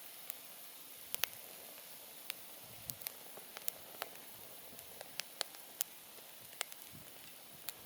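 Wood campfire crackling: irregular sharp pops and snaps, about a dozen, over a steady soft hiss.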